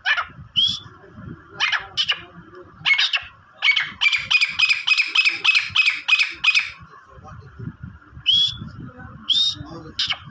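Partridge (titar) calling: loud, harsh repeated calls, with a fast run of about ten notes from about four to seven seconds in and a few short rising notes near the end.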